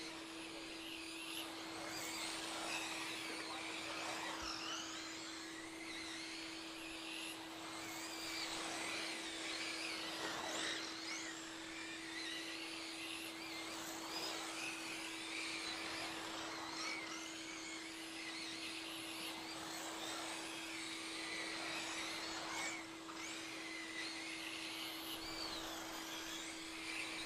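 Electric motors of several radio-controlled short-course trucks in a modified-class race whining, their pitch rising and falling over and over as they accelerate and brake around the track. A steady hum sits underneath.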